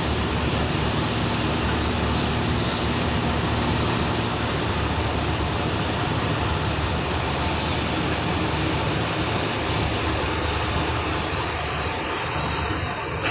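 A boat's engine running steadily, a low hum under heavy wind noise.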